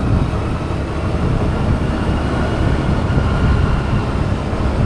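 Steady, loud low rumble of a moving vehicle, with faint steady tones above it.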